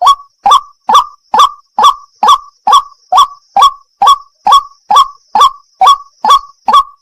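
White-breasted waterhen (wak-wak) call: a short, sharp note repeated at an even pace, a little over two calls a second, without a break. A faint steady high tone runs behind it.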